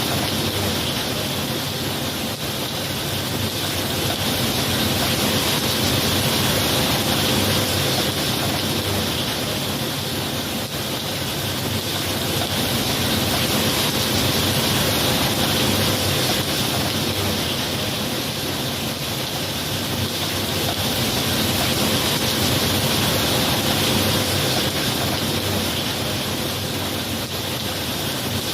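Steady rain falling, a dense, even hiss that swells and eases slowly every several seconds, with no thunder.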